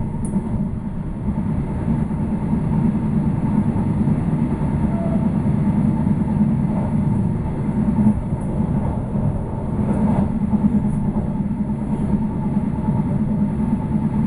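A moving passenger train heard from inside the carriage: a steady low rumble of wheels running on the rails, with a faint steady high tone above it.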